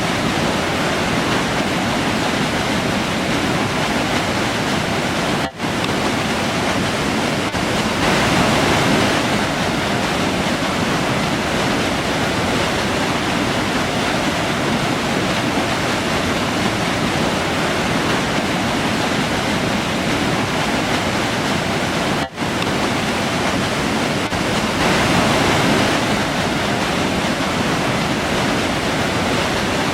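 River water rushing steadily over rocks, a loud even noise that swells slightly twice and drops out for an instant twice.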